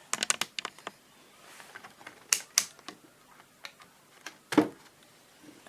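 A quick run of small sharp clicks, then a few scattered clicks and a single louder knock about four and a half seconds in: small parts and leads being handled on a workbench.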